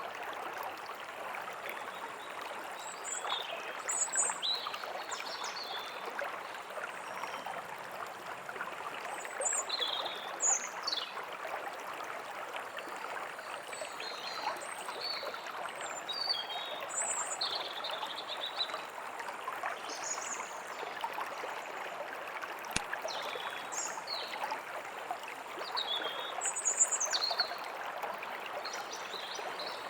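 A forest stream running steadily, with small birds chirping and twittering over it: many short, high calls and quick falling whistles scattered throughout.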